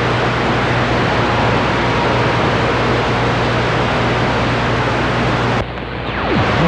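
CB radio receiver putting out loud, steady band static and hiss on the 11-meter band, with a low hum under it. Near the end the hiss cuts out abruptly and a whistle falls in pitch.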